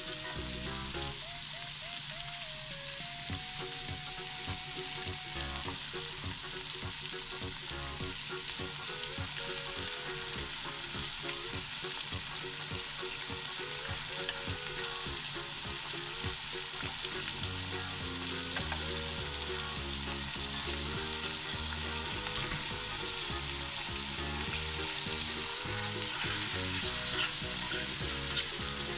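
Sliced onions and tomatoes, later joined by liver, sizzling steadily in hot oil in a nonstick pot. Near the end a spoon stirs the pan with a few light scrapes and taps.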